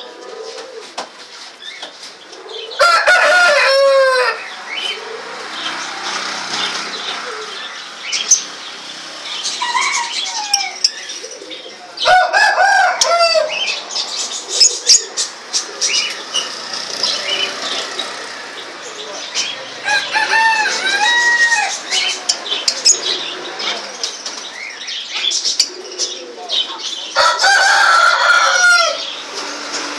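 Small cage birds chirping continuously, with a rooster crowing loudly four times, spread through the stretch.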